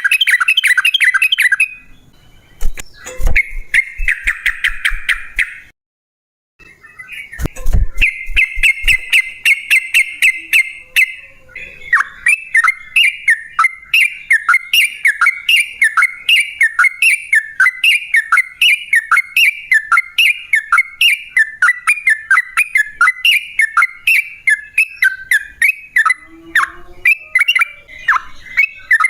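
Yellow-vented bulbul (trucukan) singing: bursts of fast bubbly chatter, then a long run of evenly repeated, slightly falling notes at roughly two a second. Two low thuds come a few seconds in, and the sound drops out briefly near the middle.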